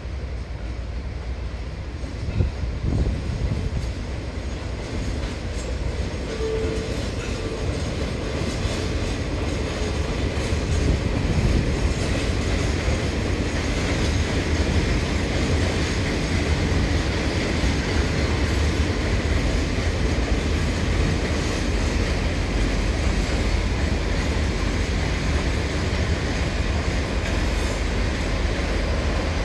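Freight train of empty open wagons rolling past with its diesel locomotive: a steady rumble of steel wheels on rail, louder from about ten seconds in as the train comes nearer.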